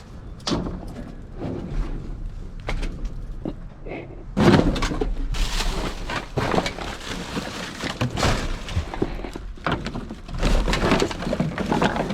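Rummaging through a dumpster: a run of knocks, clatters and rustles as thrown-out items are shifted and handled, getting busier and louder about four seconds in.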